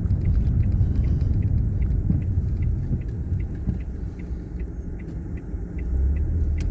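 Road and engine rumble inside a moving Mk7 Ford Fiesta's cabin. It eases off through the middle and swells again near the end, with a light, regular ticking about three times a second through the middle stretch.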